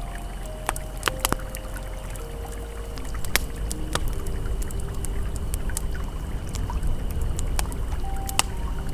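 Campfire crackling with scattered sharp pops, over the steady rush of a flowing river. Soft held ambient music tones sit quietly underneath.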